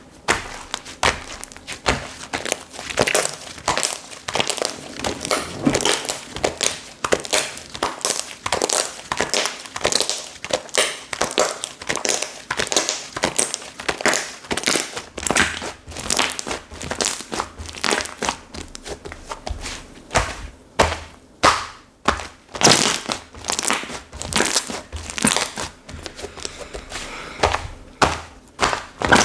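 Slime being squished, pressed and stretched by hand, giving a dense run of sticky crackles, pops and squelches with no pause.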